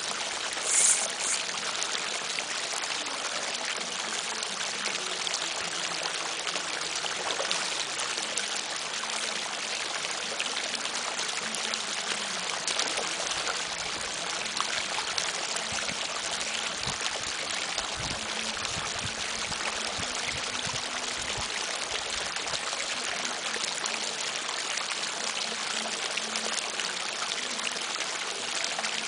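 Steady rush of flowing stream water, with a brief, loud, high hiss about a second in.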